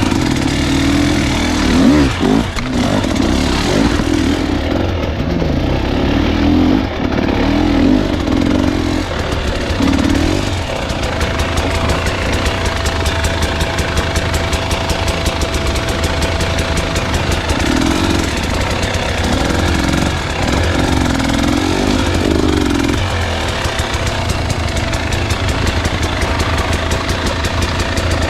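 Husqvarna enduro dirt bike engine running under load while being ridden, its pitch rising and falling again and again as the throttle opens and closes, over a steady low rumble.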